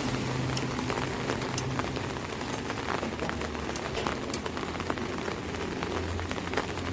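Rain falling on an umbrella: a steady hiss with many individual drops striking as sharp ticks. A low vehicle hum comes in near the end.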